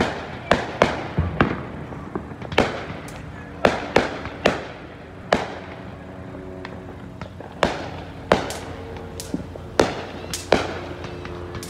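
Aerial fireworks bursting overhead: an irregular run of sharp bangs, each with a short echo trailing off, and a lull of about two seconds midway.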